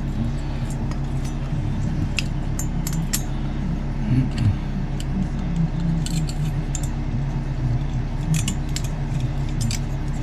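Scattered light metallic clicks and clinks of small metal engine and exhaust parts being handled, over a steady low hum.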